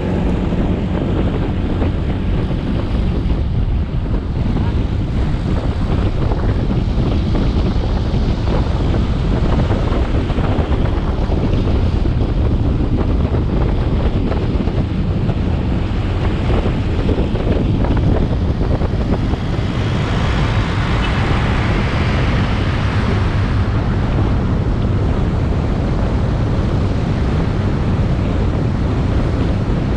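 Motorcycle riding at speed: the engine and road noise lie under heavy wind buffeting on the microphone. For a few seconds about two-thirds of the way through, a louder rushing hiss rises and fades.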